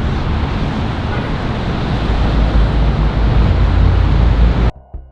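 Wind buffeting the microphone over the steady noise of city traffic, cutting off abruptly near the end.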